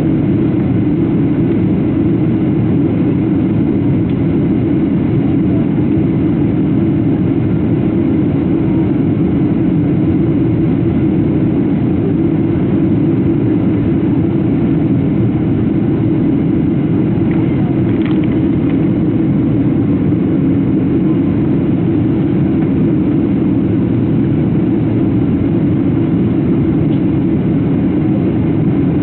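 Steady, loud cabin drone of a Boeing 737-700 in flight on descent: its CFM56 turbofan engines and the airflow over the fuselage heard from a window seat. A faint click about two-thirds of the way through.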